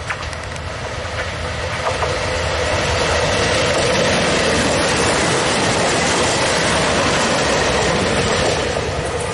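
Diesel train passing close by, its wheels clattering on the rails. The noise builds over the first few seconds, then holds steady.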